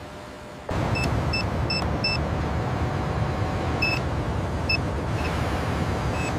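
Heavy machinery running: a loud, steady engine rumble that starts suddenly about a second in, with short, high-pitched beeps at uneven intervals over it.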